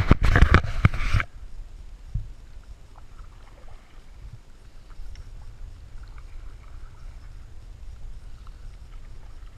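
Canoe paddling on a river: a loud burst of splashing with a few sharp knocks in the first second, then only faint water sounds and a low rumble.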